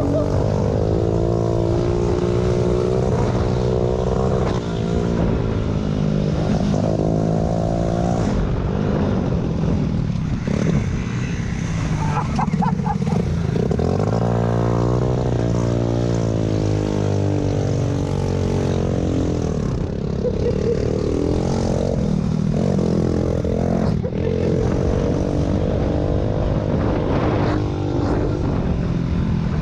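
Vintage pit bike engines running hard, their pitch repeatedly climbing and dropping as they rev up and back off.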